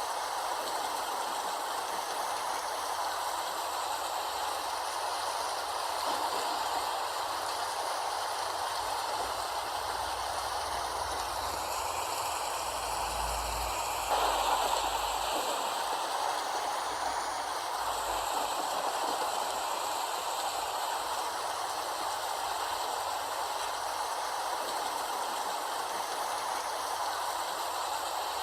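Steady rain, an even hiss that runs unbroken, getting slightly louder about halfway through.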